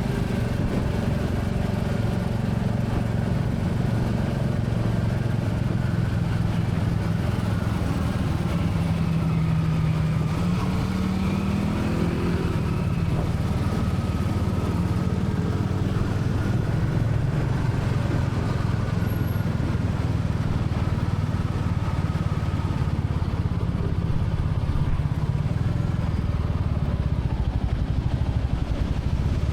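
Royal Enfield Classic 350's single-cylinder engine running steadily while riding. The engine pitch rises briefly about ten to twelve seconds in as it accelerates.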